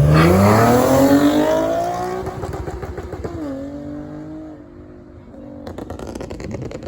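Car engine revving hard as it accelerates, its pitch climbing. About three seconds in it shifts up and climbs again while fading away.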